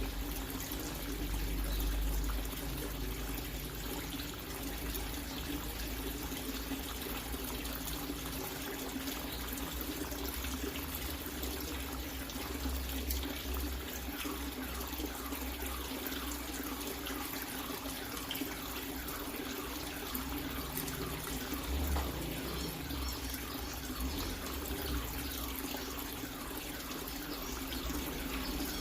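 Water running steadily, like a tap or hose pouring into a tank.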